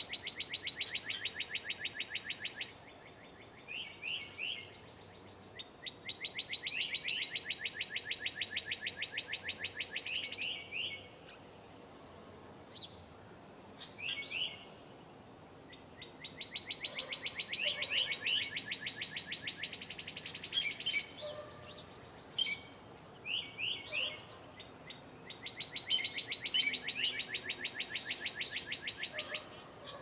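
A songbird singing a long, fast trill of rapidly repeated notes lasting three to four seconds, each trill ending in a few quick slurred notes. The song repeats four times about every nine to ten seconds, with other birds' short sharp chirps in the gaps.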